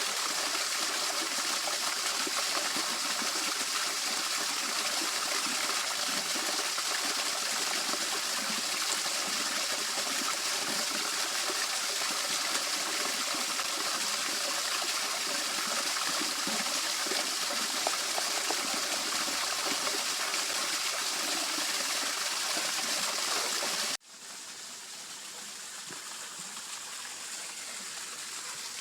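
Water running steadily over a small waterfall in a field channel. Late on it cuts off sharply to a softer, steady flow.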